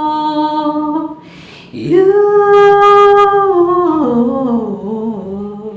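Unaccompanied solo voice singing, holding a long sustained note. There is a short breath about a second in, then a second long note that steps down lower toward the end.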